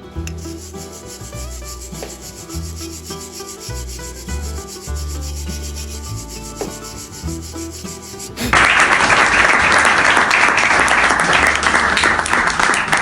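Background music, then about eight and a half seconds in a loud, steady crackle starts and holds: a stick-welding arc burning on steel plate and angle iron.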